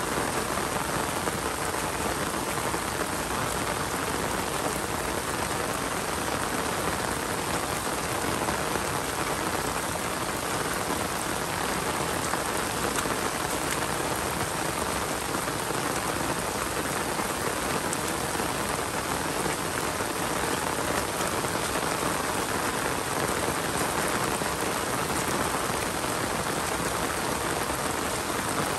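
Steady rain falling on surfaces, an even hiss that holds constant without thunder or other distinct sounds.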